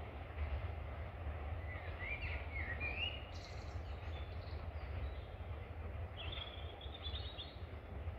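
Birdsong: a few short chirping phrases about two seconds in and again around six seconds in, over a steady low rumble.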